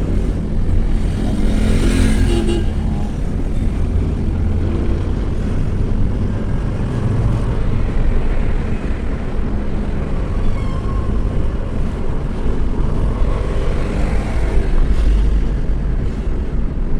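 Motor vehicle driving along: steady engine and road rumble.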